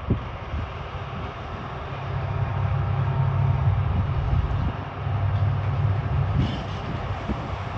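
ST48 diesel freight locomotive pulling a military train out of the station: a low engine drone that swells about two seconds in and eases near the end, with scattered knocks from the wheels and wagons.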